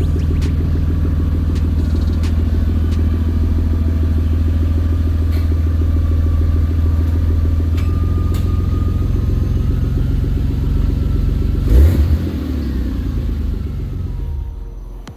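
Toyota 2JZ-GTE inline-six idling steadily, with the rough idle and misfire that the owner is chasing. About twelve seconds in there is a single loud thump, and then the engine sound falls away and dies down, as if the engine is being shut off.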